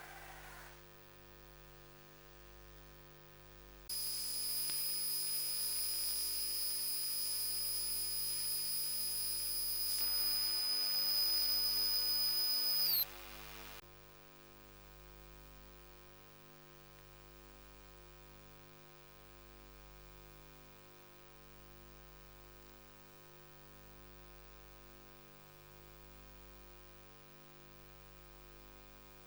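A steady, high-pitched electronic tone lasts about nine seconds and cuts off with a slight drop in pitch. Before and after it there is only a faint, steady electrical hum.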